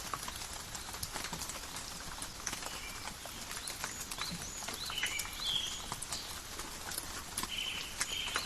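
Calm rain in a forest, heard as many separate drops dripping and pattering on leaves, over a faint steady hiss. Short high chirps repeat throughout, with a longer call about five seconds in and again near the end.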